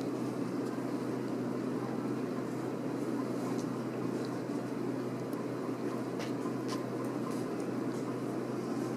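Steady low background hum and rumble, with a few faint short high ticks scattered through it.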